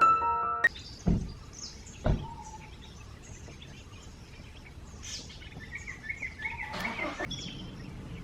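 Piano music ends within the first second, giving way to several birds chirping and calling in the trees, with a run of quick repeated notes about six to seven seconds in. Two dull thumps come about one and two seconds in.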